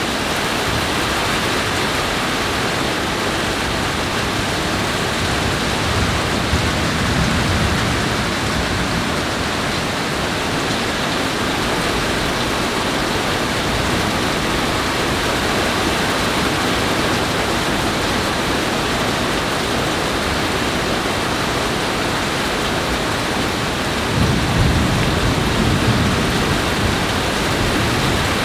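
Heavy rain falling steadily in a thunderstorm, with low rolls of thunder swelling twice, the second, near the end, slightly louder.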